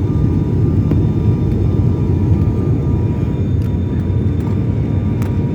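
Airliner cabin noise during the landing approach: a steady, loud low rumble of engines and airflow, with faint steady whines above it.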